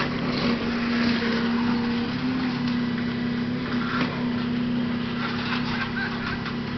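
Old heavy garbage truck's engine running steadily with a constant hum, a light knock about four seconds in.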